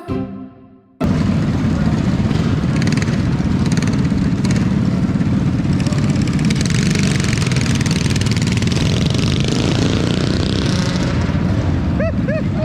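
Small mini bike engines running loudly and steadily, starting abruptly about a second in.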